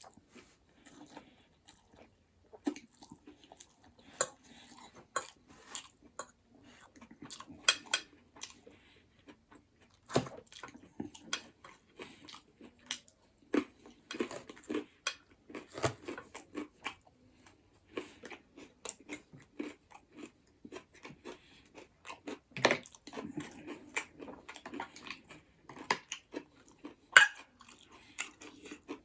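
Close-miked eating of buffalo bone marrow and noodles: chewing and biting heard as an irregular string of short sharp clicks and smacks, with no pauses longer than a second or two.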